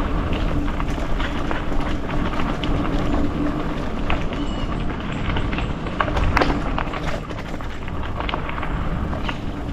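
Mountain bike rolling down a loose gravel trail: tyres crunching over the gravel and the bike rattling with many small knocks, over a steady low rumble.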